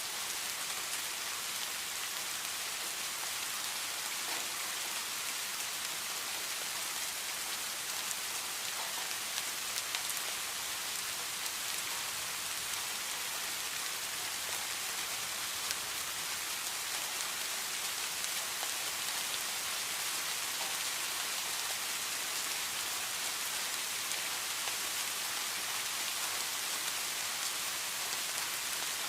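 Steady rain falling, a continuous even hiss with fine drop ticks.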